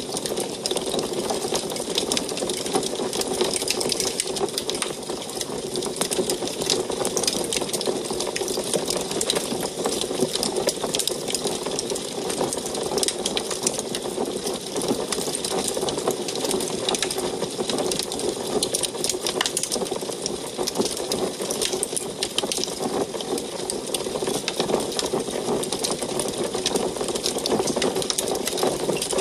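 Wood fire burning in an antique wood stove, crackling with many quick, irregular clicks over a steady low rush.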